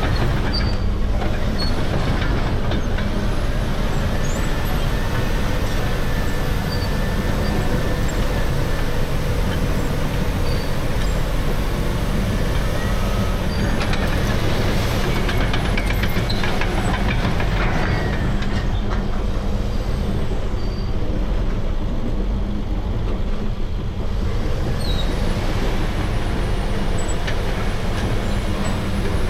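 Caterpillar D6R crawler dozer running steadily under work, its C9 diesel engine and undercarriage making a continuous heavy machine noise, with brief higher-pitched squeals now and then.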